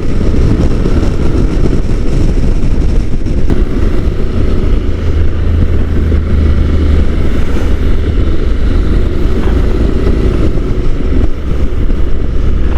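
Wind rushing over a helmet-mounted microphone while riding a Honda NC750 DCT at road speed, with the motorcycle's parallel-twin engine running steadily underneath. The noise is loud and constant, with no gear changes or breaks.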